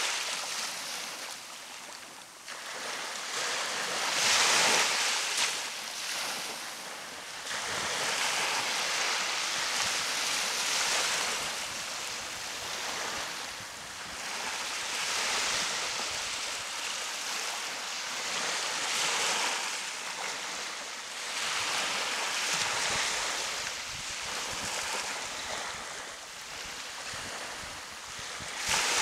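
Gulf of Mexico surf washing onto the beach, the hiss of the water swelling and easing as each wave breaks and runs up, about every three to four seconds.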